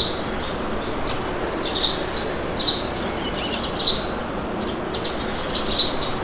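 Steady wind noise with birds chirping over it, short high chirps coming every second or so.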